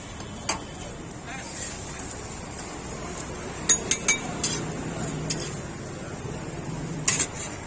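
Metal kitchen utensils clinking and tapping in a handful of sharp, short clinks, a cluster in the middle and a pair near the end, over low background chatter and street noise.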